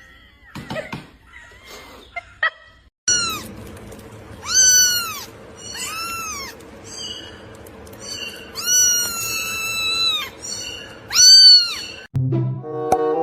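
A cat meowing repeatedly: several high, arched meows, one of them long and drawn out, with music coming in near the end.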